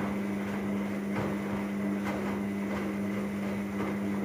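Myria MY1506 washing machine running its rinse cycle: a steady hum with faint, irregular ticks over it.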